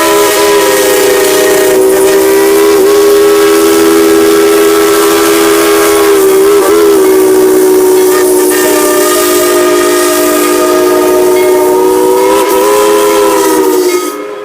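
Steam locomotive whistle sounding one long, very loud blast as a chord of several tones. The pitch wavers briefly a few times and the blast cuts off near the end.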